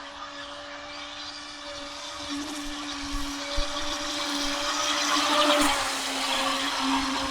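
Electric motor of a fast radio-controlled boat running at speed, a high steady whine with the rush of the hull on the water. It gets louder to a peak about five and a half seconds in as the boat comes closer, then eases off.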